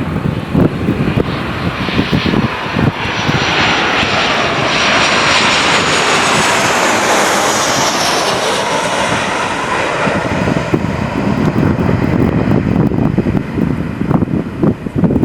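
Boeing 737-800 jet airliner passing close by, its CFM56 turbofan engines swelling to a peak about halfway through and then fading, with a high whine that falls in pitch as it goes past. Wind buffets the microphone at the start and end.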